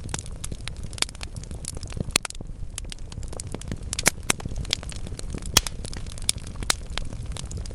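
Wood fire burning in a fireplace: logs crackling with irregular sharp pops over a low steady rumble of the flames, a few pops louder than the rest about four and five and a half seconds in.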